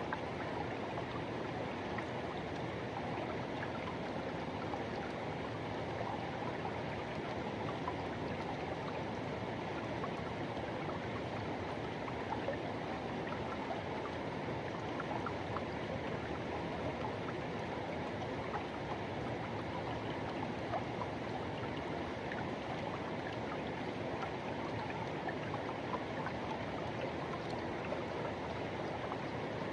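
Forest river rushing, a steady, even sound of running water.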